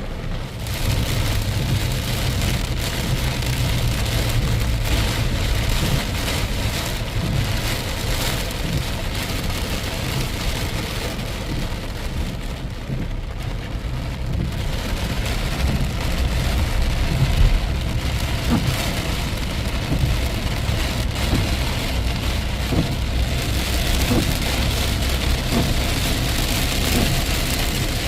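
Rain falling steadily, with a continuous low rumble underneath.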